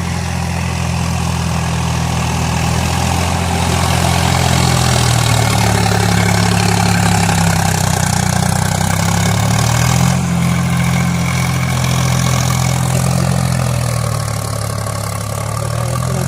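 Sonalika tractor's diesel engine running steadily while ploughing. Its engine note dips and picks up again a few times as the load changes.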